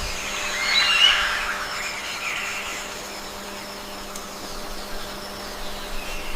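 Rainforest-style ambience: a steady hiss with a faint low hum under it, and a few short bird calls about a second in and again a second later.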